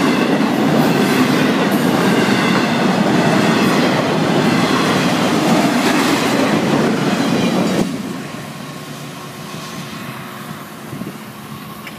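Florida East Coast Railway double-stack intermodal freight cars rolling past at close range with a loud, steady rumble. About eight seconds in, the noise drops off suddenly as the end of the train goes by, leaving the train fading into the distance.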